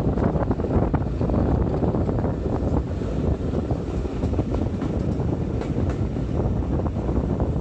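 Steam train hauled by a Hunslet Austerity 0-6-0 saddle tank locomotive on the move: a dense, steady rumble with many irregular clatters and knocks, and wind buffeting the microphone.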